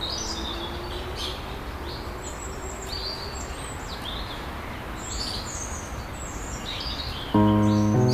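Many short, high bird chirps over steady outdoor background noise. Near the end, piano music comes in with a chord.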